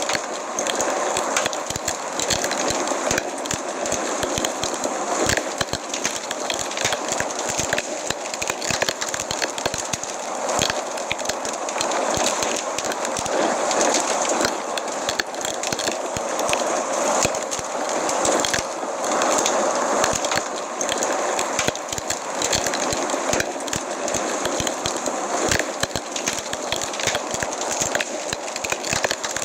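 Wood fire in a fireplace burning, with dense, continuous crackling and frequent sharp pops.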